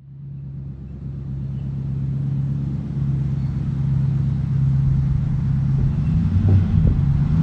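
Range Rover Classic engine running steadily, fading in from silence and getting louder, its pitch shifting up slightly about six seconds in.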